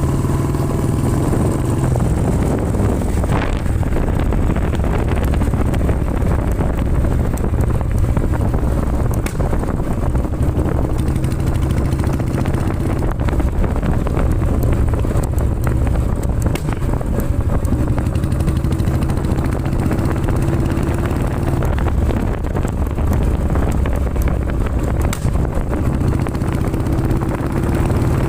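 Royal Enfield Classic 350's single-cylinder engine running steadily through its exhaust, with scattered sharp pops and crackles from the exhaust.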